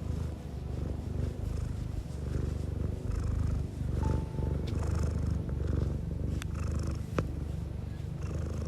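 Domestic cat purring close to the microphone, a low rumble that swells and dips with its breathing. A single sharp click sounds about seven seconds in.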